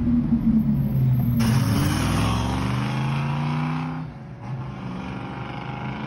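Sports car engines revving and accelerating, in short edited clips. After an abrupt cut about a second and a half in, the engine note climbs in pitch. A second cut about four seconds in brings a quieter car driving away.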